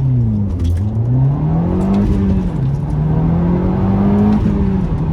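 Audi S3 8P's turbocharged 2.0-litre four-cylinder engine pulling hard in a standing-start launch. The engine note climbs, drops about two seconds in with a gear change, climbs again and drops again about four and a half seconds in.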